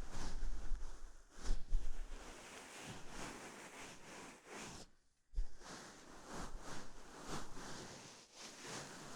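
Knit cardigan pressed over the microphone and rubbed: soft fabric rustling with dull, muffled thumps each time it presses on. The sound briefly drops out about five seconds in, then the pressing and rubbing start again.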